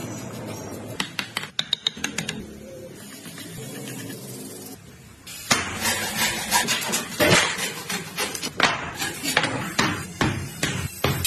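Hand-tool work on a small wooden piece: a quick run of sharp taps, then a quieter stretch, then a longer, louder run of irregular knocks and clicks.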